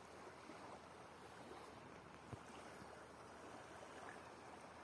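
Near silence: a faint steady background hiss, with one soft click a little over two seconds in.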